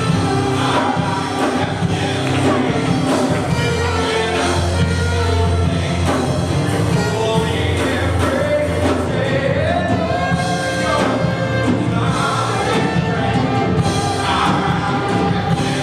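Live band music with singing: a worship song, with a steady bass line under sung melody.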